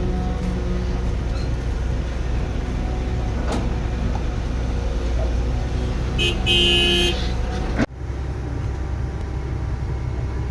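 Diesel engine of heavy construction machinery running steadily, with a vehicle horn sounding once for about a second some six seconds in. Near eight seconds in, the sound breaks off for a moment and then resumes.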